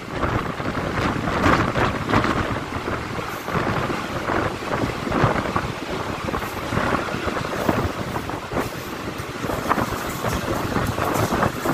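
Mumbai suburban local train running at speed, heard from its open doorway: a steady rumble and rattle of wheels on track, with wind buffeting the microphone.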